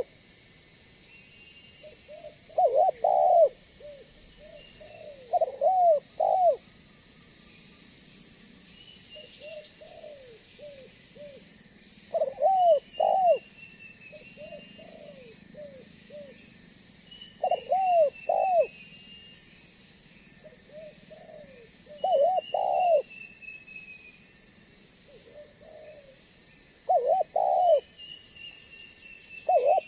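Spotted dove (tekukur) cooing: repeated phrases of a few soft notes leading into two or three louder coos, a phrase every two to five seconds, louder and softer phrases alternating. A faint falling whistle of another bird sounds between phrases over a steady high hiss.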